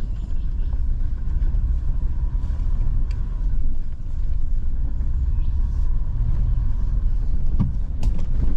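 A vehicle driving along a rough dirt track: a steady low rumble of engine and tyres, with a couple of sharp knocks near the end.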